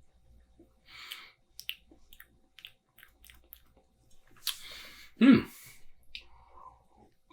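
Mouth sounds of tasting a sip of pilsner: small lip smacks and clicks, breathy exhales, and a short low thump a little past five seconds in, the loudest sound.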